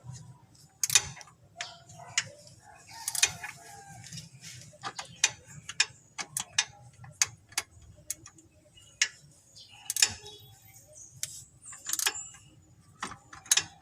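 Hand tools and metal parts clicking and knocking irregularly, one or two sharp clicks a second, with a few louder knocks.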